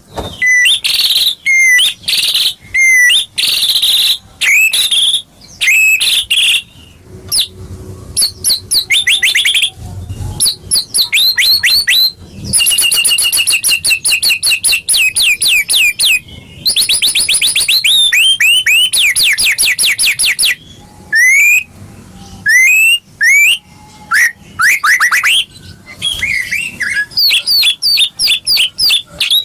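White-rumped shama (murai batu) singing loudly and continuously: varied whistled phrases, quick rising sweeps and long rapid trills of repeated notes, the kind of song played as a pancingan to provoke a captive shama into singing.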